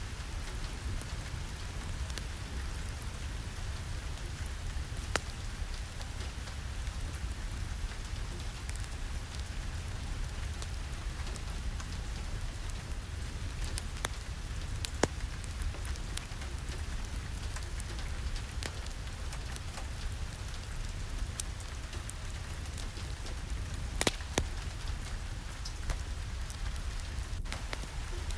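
Steady rain with a low rumble underneath and scattered sharp ticks and pops, the loudest about 24 seconds in.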